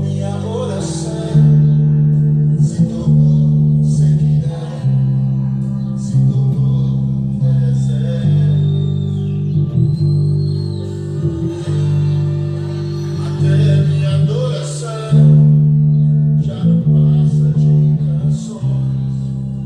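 Guitar played by a beginner in her third lesson: sustained chords that ring on and change every one to three seconds.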